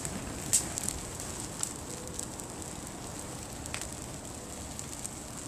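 A burning pine tree crackling steadily, with a few sharp pops, the loudest about half a second in and another near four seconds in.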